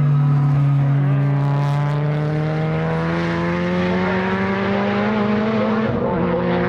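Time-attack race car engine pulling hard under acceleration, its pitch climbing steadily, then dropping sharply near the end.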